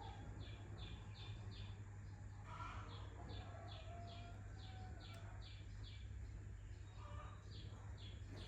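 A small bird calling in the background: runs of short, high, downward-slurred chirps, about three a second, repeated in three bursts, over a steady low hum.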